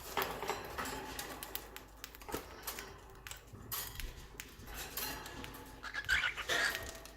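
Pet birds eating from a hand: faint, scattered light pecking clicks, with a few short calls near the end.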